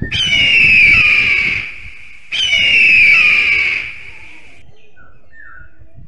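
Owl giving two long, harsh screeching calls, each about a second and a half, sliding slightly down in pitch, the second starting about two seconds in.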